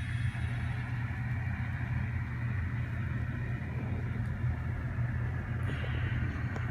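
Sound decoder of an N scale model GE Tier 4 GEVO diesel locomotive playing a steady diesel engine rumble through the model's small on-board speaker.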